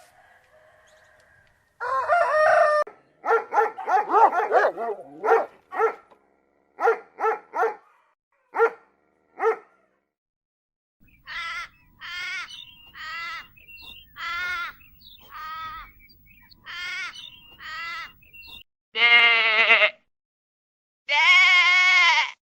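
Farm animal calls one after another: a quick string of short calls through the first half, then about eight separate short calls, then two long bleats of about a second each near the end.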